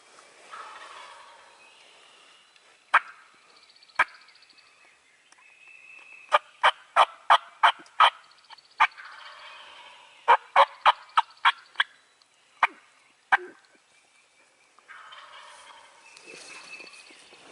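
Wild turkey calling: loud, sharp yelp notes, single ones and then two quick runs of about five or six notes each, over a fainter rattling gobble.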